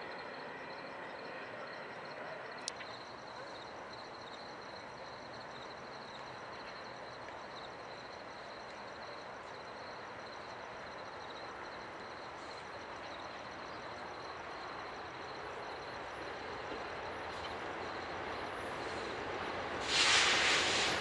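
Approaching train: a steady distant rush of noise that slowly grows louder as it nears. There is a sharp click early on and a sudden loud burst of noise near the end.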